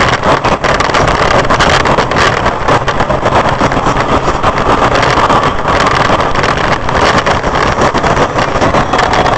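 Loud, steady noise of a car on the move: road and wind rumble with no break.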